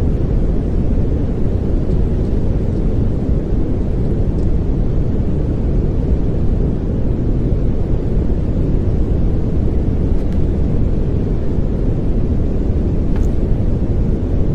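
Steady pink noise: an even, unchanging hiss, deep and rumbly, with most of its weight in the low end.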